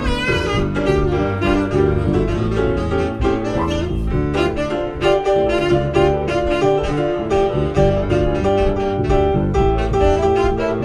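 A band playing jazzy music: saxophone over a bass line and a steady beat, the saxophone holding a wavering note at the start.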